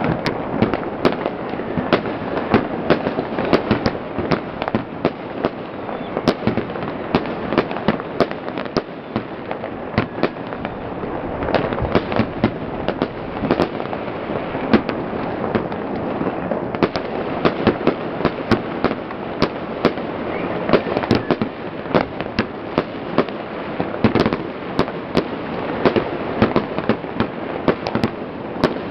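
Many fireworks and firecrackers going off at once: a continuous crackle of sharp bangs, several a second, over a steady rumbling din.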